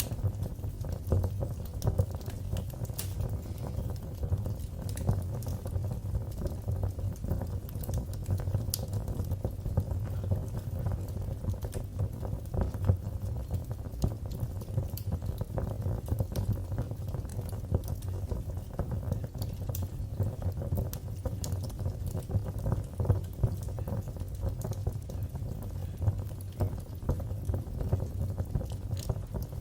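Fire burning in a fireplace: dense, irregular crackling and popping over a steady low rumble of flames, with a few louder pops.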